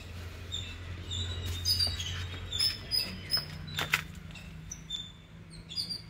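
Birds chirping in short, high notes, repeated many times, with a few sharp clicks in the middle.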